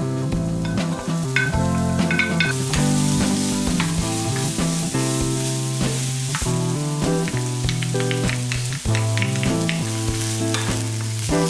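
Diced eggplant sizzling in oil in a saucepan while a wooden spoon stirs it, with frequent light knocks of the spoon against the pan. The sizzle grows louder about two and a half seconds in. Background guitar music plays throughout.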